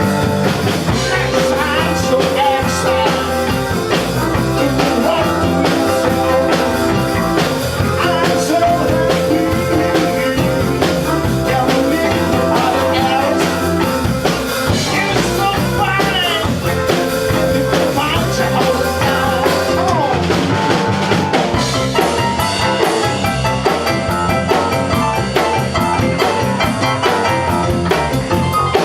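A band playing blues-rock music, with a drum kit keeping a steady beat under sustained instrumental notes.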